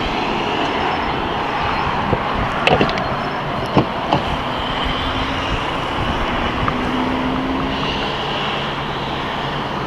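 Steady vehicle running noise, a broad even roar, with a few light clicks in the first half.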